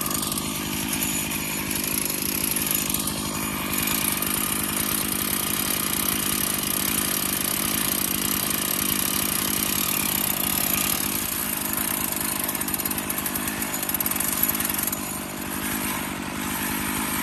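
Stihl MS461 chainsaw on an Alaskan chainsaw mill, running steadily at high revs as it rips a slab lengthwise through a cedar log.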